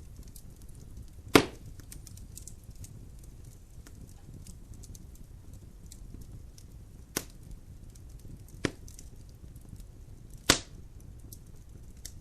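Logs burning in a fireplace, crackling: many faint small ticks over a low steady background, broken by four sharp loud pops. The pops come about a second in, twice close together past the middle, and once near the end.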